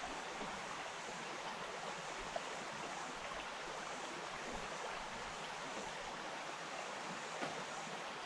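Small bush stream running over stones: a steady babble and trickle, with a slightly louder splash about two seconds in and another near the end.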